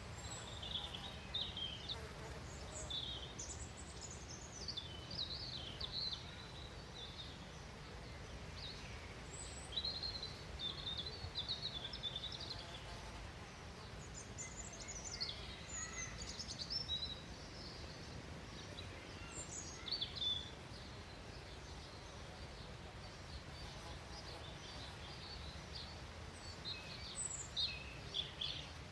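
Small birds chirping in short, quick calls that come and go in clusters, over a steady low rumble of outdoor background noise.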